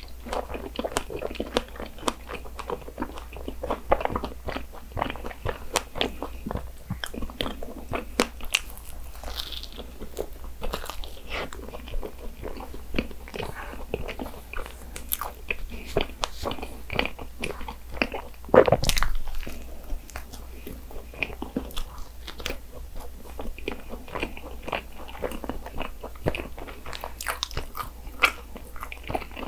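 Close-miked chewing and biting of a soft cream-filled strawberry bread pastry: steady wet, crackly mouth sounds with small irregular clicks, and one louder thump about two-thirds of the way through.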